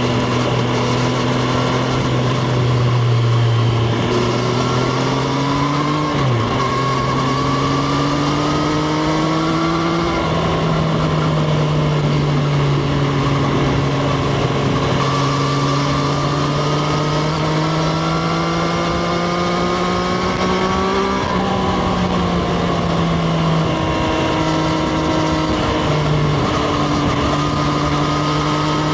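Triumph Street Triple RS 765 cc inline three-cylinder engine under way, heard onboard. The pitch climbs slowly in each gear and drops sharply at upshifts about six seconds in and again about twenty-one seconds in.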